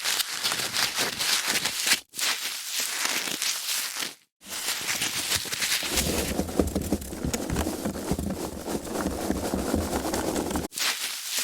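Foam packaging being handled: a dense run of squeaky, crackly rustling, broken by short silent gaps, fuller and deeper from about halfway through.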